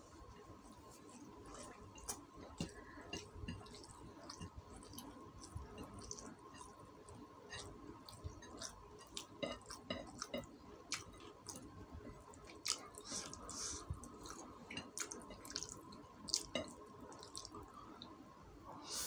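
Close-up eating sounds as rice and chicken are eaten by hand: wet chewing and lip-smacking, with many short, sticky mouth clicks at an uneven pace. A faint steady high hum runs underneath.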